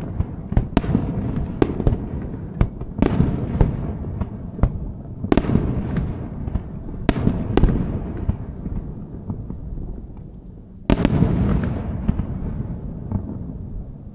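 Fireworks display: aerial shells bursting in quick succession, each sharp bang trailing off in a low rolling rumble. After a short lull, one heavy burst about eleven seconds in.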